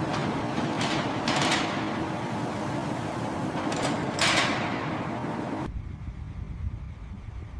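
A steady hum with several short hissing swishes, then a sudden change to a low rumble.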